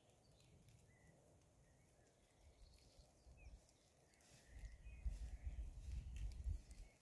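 Faint outdoor ambience with a few short, high bird chirps. A low, irregular rumble on the microphone swells about four and a half seconds in and fades just before the end.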